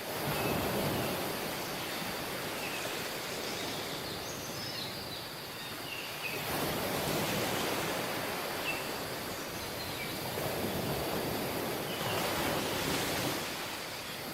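Waves washing onto a tropical beach, the surf swelling and falling back several times. Short high chirps sound now and then over it.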